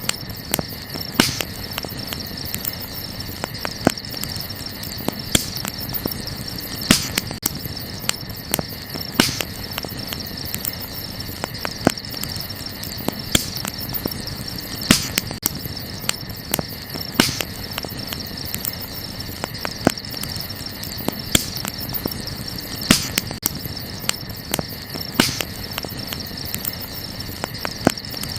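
Burning wood crackling, with a sharp pop every second or two among many smaller ticks, over a steady high chorus of night insects.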